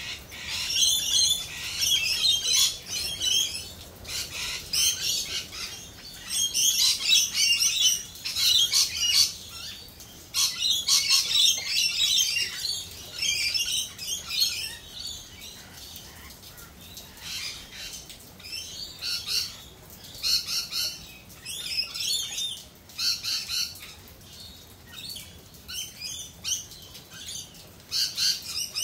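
Birds squawking and chattering in busy bursts of rapid high calls, each a second or two long with short pauses between; the calling thins out after about halfway.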